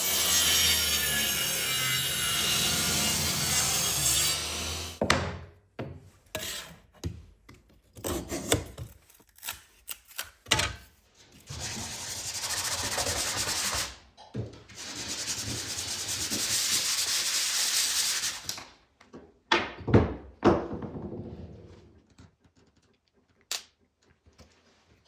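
A power tool cutting or sanding wood for a knife handle. It runs steadily for about five seconds, then in two more spells in the second half, with clicks and knocks of the pieces being handled in between.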